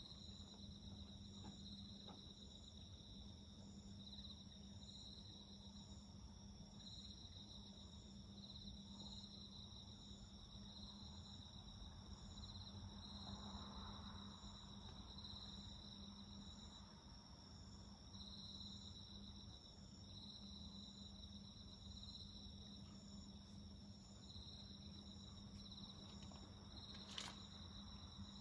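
Faint insects calling: a regular pulsed cricket chirp about once a second over a steady high trill from another insect. A single sharp crackle from the bonfire comes near the end.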